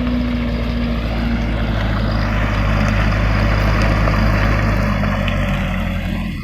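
Mitsubishi Canter truck's diesel engine running steadily as the truck drives up the slope, growing a little louder toward the middle and easing near the end.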